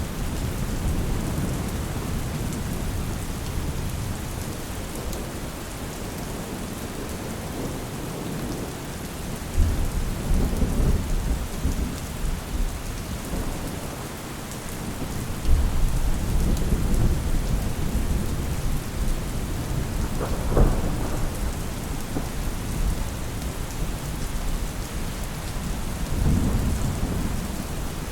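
Steady rain falling, with low rolls of thunder. Rumbles start suddenly about ten and fifteen seconds in, a sharper thunderclap comes about twenty seconds in, and another rumble follows near the end.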